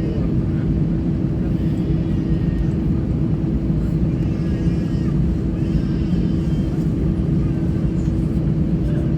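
Airbus A320 cabin noise: the steady rumble of the CFM56 engines and airflow, with a constant low hum, heard from a passenger seat.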